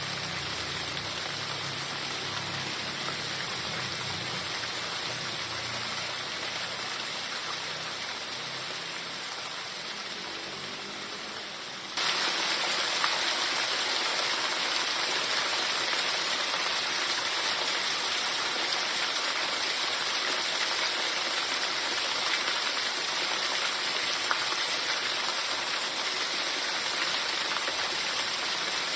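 Heavy rain falling steadily in a dense hiss of drops. About twelve seconds in it cuts abruptly to louder, brighter rain.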